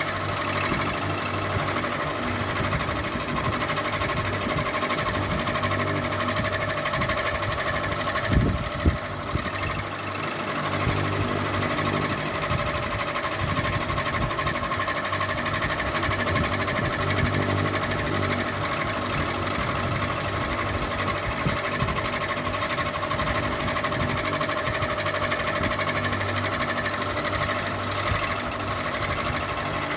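Ceiling fan running steadily, its motor humming with a constant mechanical whirr. Two brief knocks about eight seconds in.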